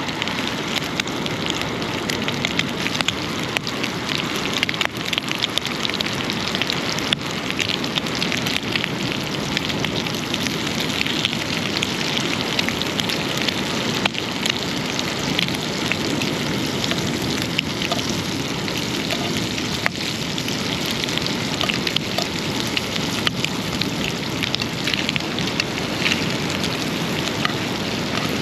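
Bacon frying over a campfire: a steady crackling sizzle of many tiny pops.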